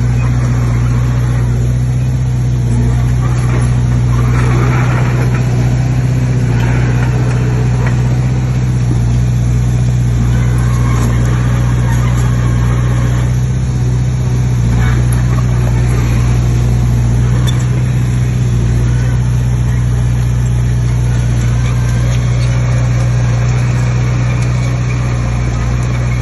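Heavy diesel engine of earthmoving machinery running steadily at a constant speed, with no change in pitch.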